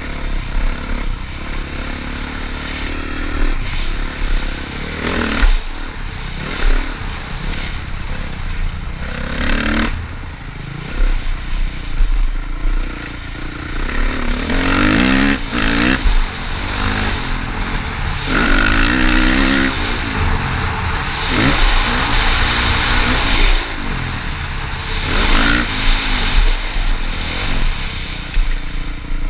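Motocross bike engine revving up and falling back again and again, the pitch climbing and dropping every second or two.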